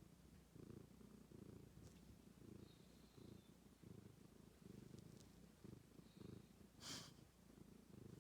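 Black cat purring in an even pulse, about two cycles a second. A brief rustle about seven seconds in is the loudest moment.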